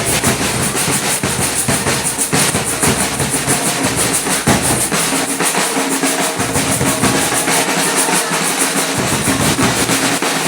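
Samba batucada drum ensemble playing a fast, dense rhythm, strokes packed closely together without a break.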